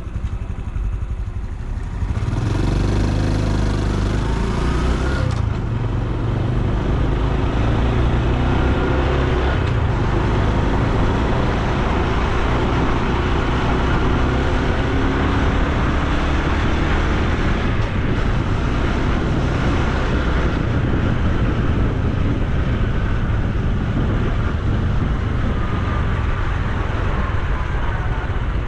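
Honda Super Cub C125's single-cylinder four-stroke engine pulling away from idle about two seconds in, rising in pitch as it accelerates. It then runs steadily at riding speed with road noise.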